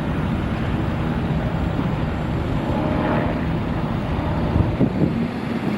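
Steady rumble of road traffic going by, with a low engine hum under it.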